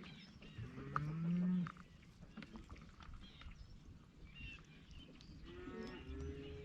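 Cattle mooing: one loud call about a second in that rises in pitch, and another, quieter call starting near the end.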